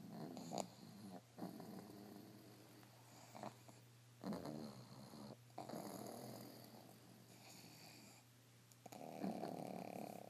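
Sleeping pugs snoring, a run of separate snoring breaths about a second apart, the longest and loudest near the end. The snoring is typical of the breed's short, flat-faced airway.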